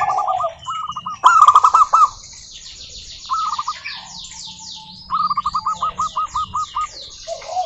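Zebra doves (perkutut) singing: quick staccato series of cooing notes in several phrases, the loudest about a second in and a long run of notes near the end. Small birds give fast, high, falling chirps behind them through the second half.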